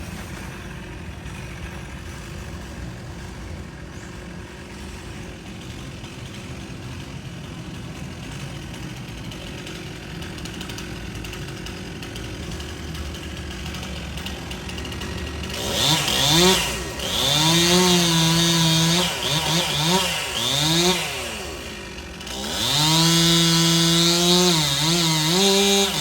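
Stihl two-stroke chainsaw, quiet and low for the first half, then revved hard from a little past halfway. Its pitch rises, holds high, dips and climbs again in two long bursts.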